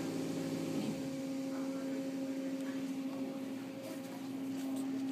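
Steady electric hum of automatic car wash machinery heard from inside the car, one low tone with a fainter higher overtone that settles in about a second in.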